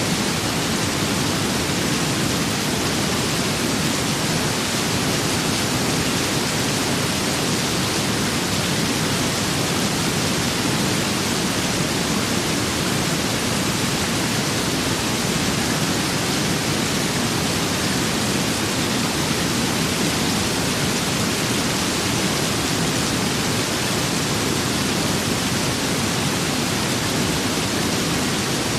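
Steady rain and wind ambience: an even, unbroken hiss over a low rumble, with no single drops, gusts or thunder standing out.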